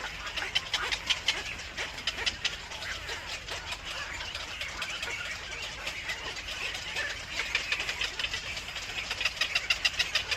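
Birds chirping: a dense run of rapid, short high-pitched notes, busiest near the start and towards the end, over a low steady hum.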